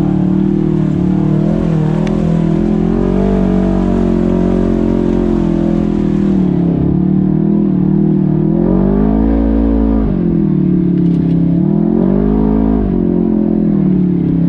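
An off-road vehicle engine running under steady throttle, revving up twice, about nine and twelve seconds in, then settling back.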